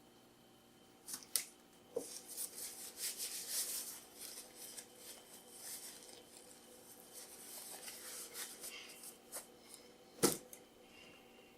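Sandwich wrapper paper crinkling and rustling as a wrap is handled and eaten, densest from about two to four seconds in, with a few sharp clicks and one louder snap near the end.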